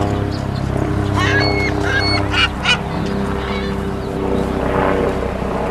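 Seagulls calling: a handful of short, squawking cries a little over a second in, over a steady low hum.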